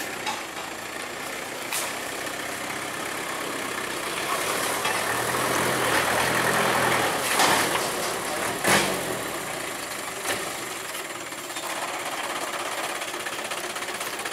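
Truck engine running, pulling harder and revving up about four seconds in, then easing off after about eight seconds, with a few sharp knocks.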